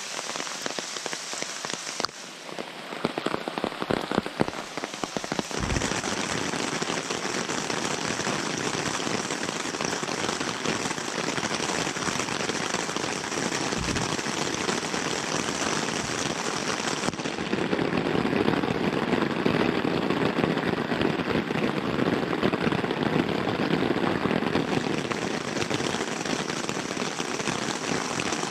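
Heavy rain falling on the tarp and tent fly overhead, heard from inside the tent as a dense, steady wash of drops. There are a few sharp taps about three to five seconds in, and the rain comes down a little harder about seventeen seconds in.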